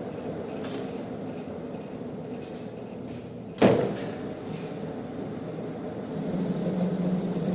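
Manual metal lathe running steadily, with one sharp clunk about three and a half seconds in. A steadier low hum and a high hiss come in near the end.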